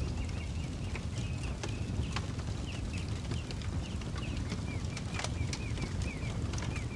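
Campfire crackling, with sharp pops scattered through over a steady low rumble. A bird chirps over it, a rapid string of short high chirps.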